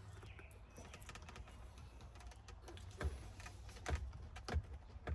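Light clicking and tapping of hands working the plastic retaining clips of a steering-wheel airbag, with three sharper knocks in the last two seconds.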